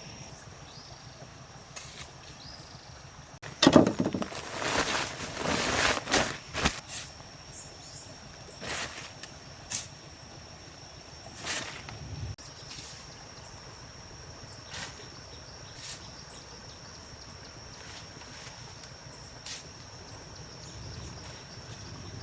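Outdoor ambience with a steady high insect drone, joined for a few seconds in the middle by a second, higher drone. About four seconds in comes a loud, rough, noisy stretch lasting about three seconds, followed by scattered sharp knocks.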